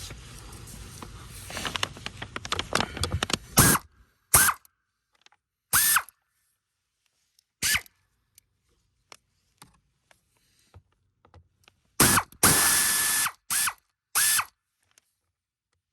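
A few seconds of rumbling, clattering rattle with many rapid clicks. This is followed by a small electric power tool run in about eight short trigger bursts, its motor whine rising quickly to a steady pitch each time before cutting off.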